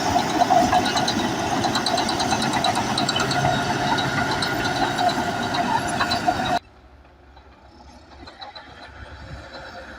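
Bulldozer working, its engine running with a dense clanking rattle of steel crawler tracks; about two-thirds of the way through it cuts off abruptly to a much fainter, steadier machine sound.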